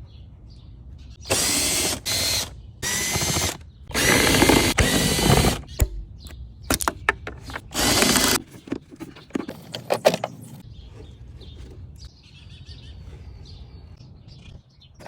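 Cordless drill-driver running in five short spurts, the longest nearly two seconds, working the fasteners of a car's engine air filter housing. It is followed by a run of sharp clicks and knocks from parts being handled.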